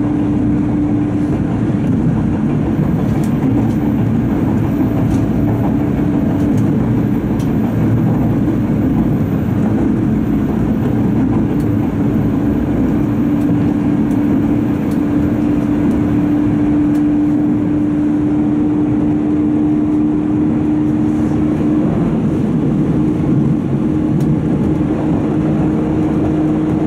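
JR Bantan Line train running steadily, heard from inside the carriage. An even rumble carries a continuous low hum that creeps slightly higher in pitch, with a few faint ticks on top.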